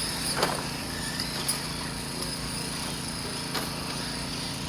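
Electric 1/10-scale RC buggies and short-course trucks with 17.5-turn brushless motors running laps: motor whine and tyre noise, with a few sharp knocks as cars land or hit things, over a steady high insect drone.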